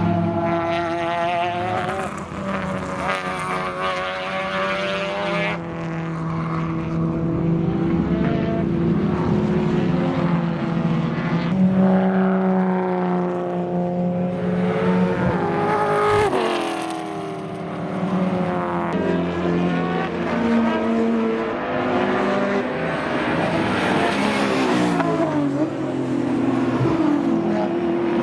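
Several racing sedans at full race pace, their engines overlapping as cars pass; pitch climbs through the gears and drops on upshifts and as cars go by, with sharp falls in pitch about 16 and 25 seconds in.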